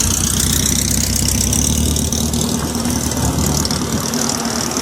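Car engine idling steadily, with a continuous low, even beat.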